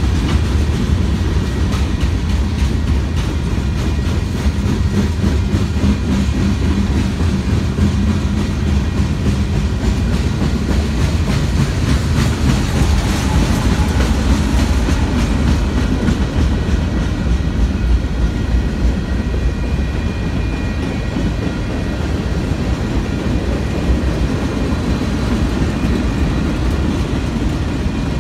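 A mixed freight train's cars rolling past: a steady loud low rumble with the clickety-clack of wheels over the rail joints.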